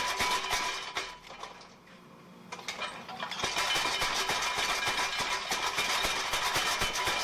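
Homemade mechanical power hammer running and striking hot steel in a rapid stream of blows over a motor hum. The blows stop for a second or two about a second in, then start again and run on.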